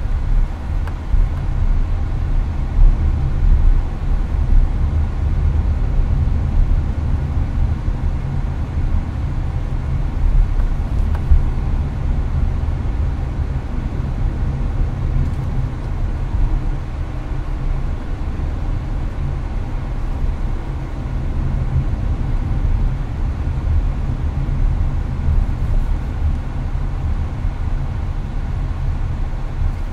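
Steady cabin noise inside a Hyundai Avante at highway speed: a low rumble of tyres, road and engine, with the air conditioner's fan hiss running throughout.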